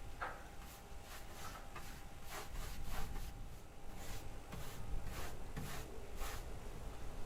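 Paintbrush stroking wood stain onto rough wooden wall boards: quick, repeated rubbing strokes, about two to three a second.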